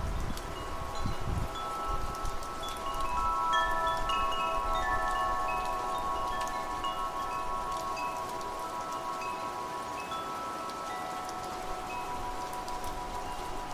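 Wind chimes ringing, many overlapping metallic tones sounding and fading one over another, against a steady hiss of wind and rain. A low wind rumble is heard in the first second or so.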